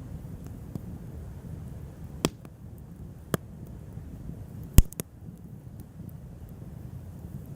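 Wood bonfire burning with a steady low rumble, and a few sharp pops as the burning wood crackles, four in all, the loudest about five seconds in.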